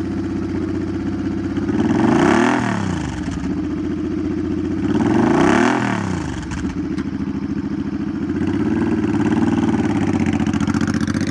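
A 2008 Suzuki Boulevard C50's 805 cc liquid-cooled V-twin with straight pipes idles just after starting, and is revved twice, about two and five seconds in, with the pitch rising and falling back each time. It then idles steadily.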